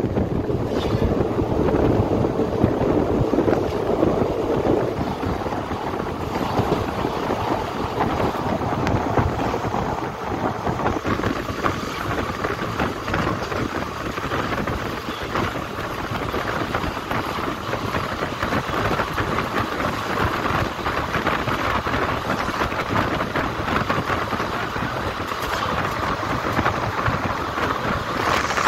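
Passenger train coaches running at speed, heard from an open doorway: a steady rush of wheels on rail mixed with wind on the microphone.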